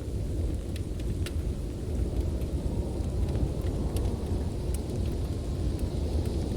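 Steady low roar of blizzard wind, with scattered sharp crackles and pops from a wood fire.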